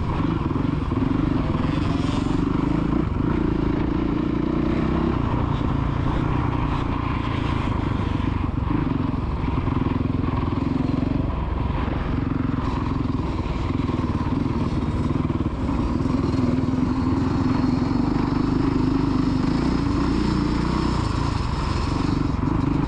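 Dirt bike engines running on a motocross track, the engine note rising and falling as the bikes go round.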